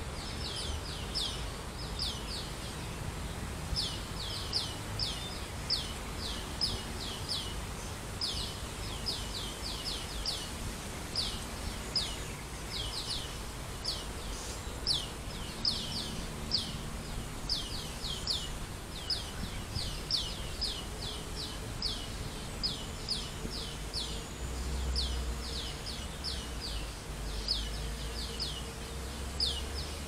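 A bird calling steadily in runs of short, high, downward-slurred notes, a few to the second, over a low outdoor rumble that grows a little louder near the end.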